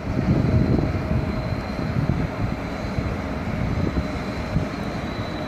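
Red SBB electric locomotive rolling slowly along the platform: a low rumble of the train with a faint steady high-pitched whine, a little louder in the first second.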